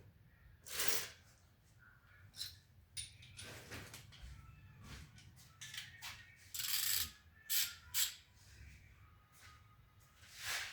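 Scattered clicks, knocks and scrapes of tools and metal parts being handled during repair work on a front-loading washing machine. The loudest come about a second in and in a cluster around seven to eight seconds in.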